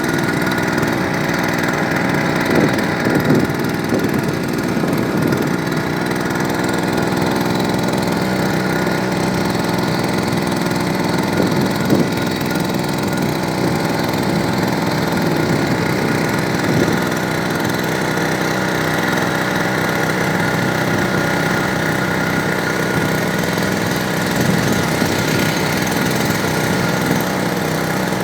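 Small grass-cutter (brush-cutter) engine driving a boat's propeller, running steadily at an even speed, with a few brief thumps along the way.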